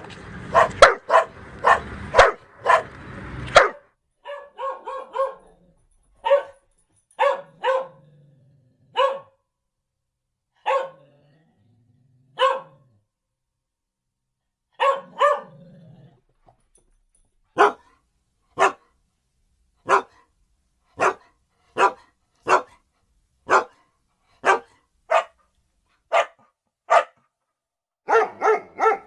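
Dogs barking: a dense burst of overlapping barks at first, then single barks with gaps of a second or two, settling into a steady run of about one bark a second, with quick barks bunching up again at the end.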